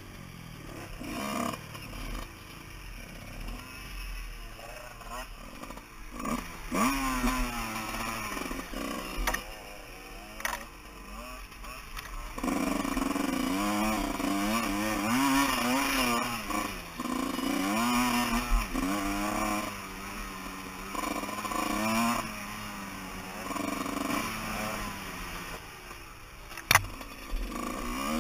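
Enduro dirt bike engine heard from the rider's helmet, its revs rising and falling with the throttle over a rough trail, louder from about halfway through. Sharp knocks now and then, the loudest near the end.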